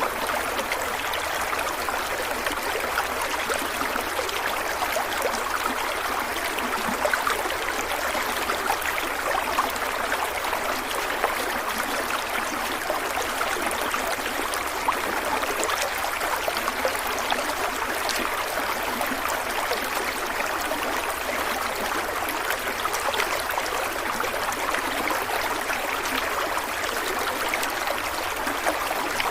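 Stream water running steadily over rocks, an even rushing with a fine trickling texture.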